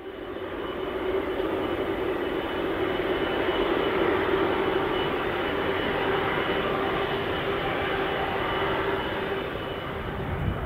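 Jet airliner's engines running steadily, with a low hum and a thin high whine over the noise, building over the first second and then holding level.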